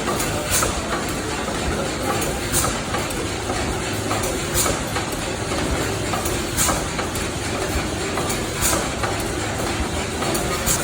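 Historic steam pumping engine running: a steady mechanical clatter with a short, sharp hiss or clack about every two seconds, in time with the engine's strokes.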